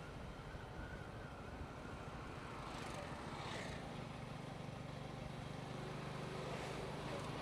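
Motorcycle engine running while riding, with road and wind noise; a steady engine note comes up clearly about halfway through.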